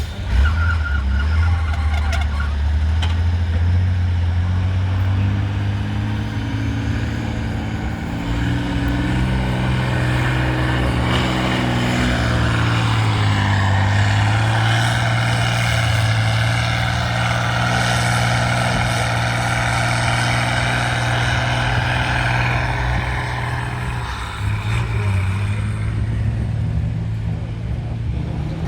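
Off-road trial truck's engine running under load, its pitch climbing after several seconds and holding high, then dropping briefly near the end before picking up again.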